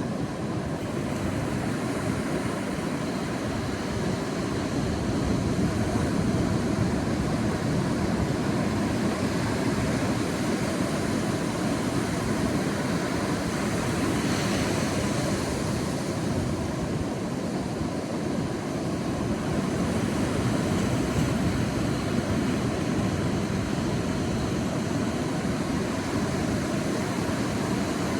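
Sea waves washing on a beach: a steady surf noise that swells and eases, with a brighter hiss of breaking surf about halfway through.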